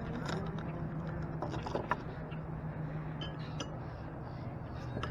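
Light clicks and clinks of a glass soda bottle being handled and its cap worked open by hand, over a steady low hum that drops slightly in pitch about three seconds in.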